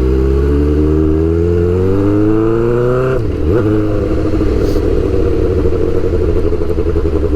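Suzuki GSX-R600's straight-piped inline-four engine, heard from the bike. Its pitch rises steadily for about three seconds, drops sharply, then the engine runs at low revs with a choppy exhaust note.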